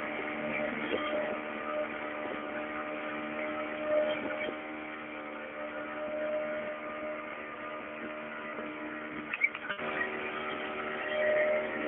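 Motorboat engine running steadily at a constant pitch, with a few sharp knocks about two seconds before the end.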